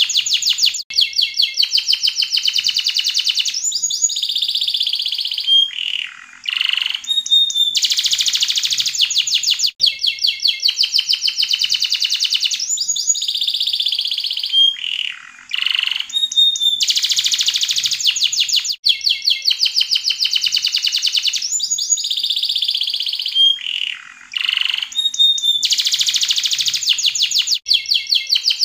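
Yellow canary singing a long unbroken song of fast trills and rolls, with brief downward-sweeping notes between them. The same stretch of song comes round again about every nine seconds, as in a looped song recording.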